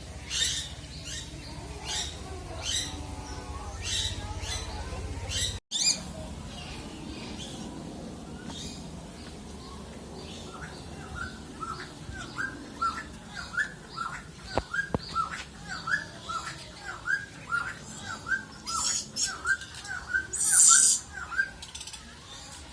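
Birds calling: a string of high chirps about once a second, then a long run of short, repeated whistled notes about twice a second, with a few loud harsh squawks near the end.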